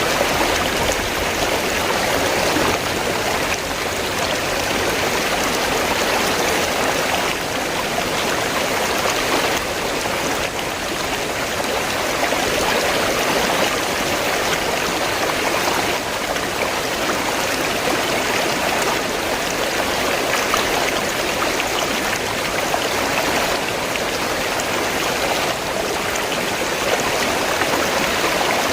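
River water running and splashing steadily.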